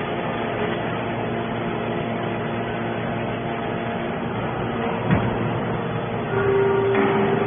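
Automatic hydraulic scrap baler running, with a steady hum from its pump and motor. A single clank comes about five seconds in, and a louder steady whine joins from about six seconds in.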